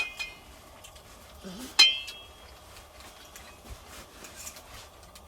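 Metal cutlery clinking against a plate while eating: a ringing clink at the start and a louder one just under two seconds in, with light scraping and tapping between.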